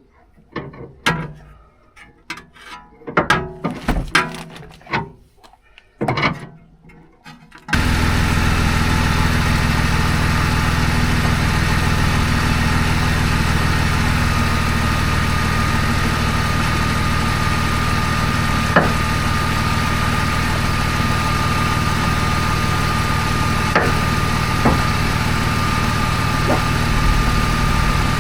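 Scattered clicks and knocks of hand work, then about eight seconds in the sound switches abruptly to the BMW Z4's engine idling steadily, with a faint steady whine above it and an occasional sharp tick.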